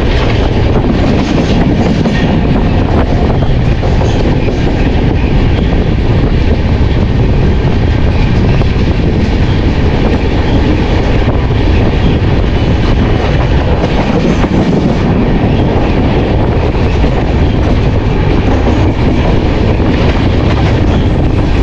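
Rewa Express passenger coaches running along the track, a loud, steady rumble of wheels on the rails.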